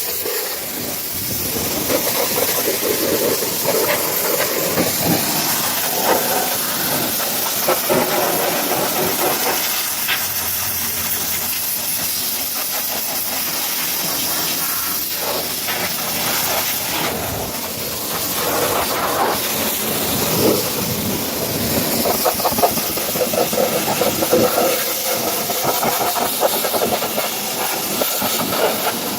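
Pressure washer spraying water in a steady hiss, the spray's sound wavering as the jet moves over the surface.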